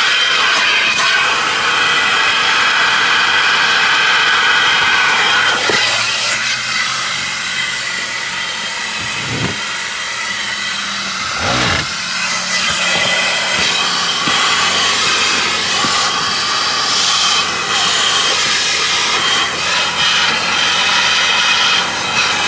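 High-pressure water spray from a car-wash wand hissing steadily onto a rubber floor mat, with a high pump whine and two short breaks in the middle.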